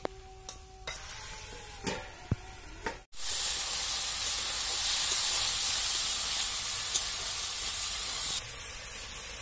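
A metal spatula stirs and knocks against an iron kadai a few times. After a cut about three seconds in, raw jackfruit pieces frying in the pan make a steady, loud sizzle, which eases a little near the end.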